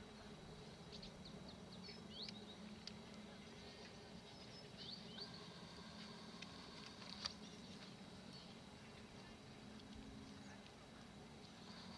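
Quiet outdoor ambience: faint bird chirps, mostly in the first half, over a low steady hum, with one sharp click about seven seconds in.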